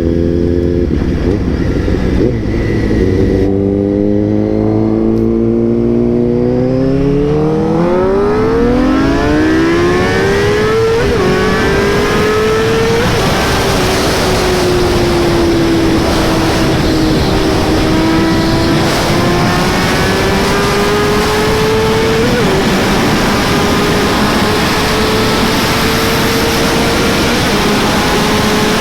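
Suzuki GSX-R 600 inline-four engine accelerating hard, its pitch climbing steadily for about ten seconds, then holding at high revs with small dips and rises. A growing rush of wind over the microphone builds with the speed.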